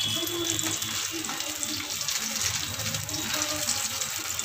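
Brinjal frying in oil in a kadhai, a steady sizzle with fine crackling.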